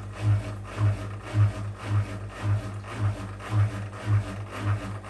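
Whirlpool WWDC 7440 front-loading washing machine at the start of a spin program, the drum turning with a low hum that pulses in regular beats about twice a second.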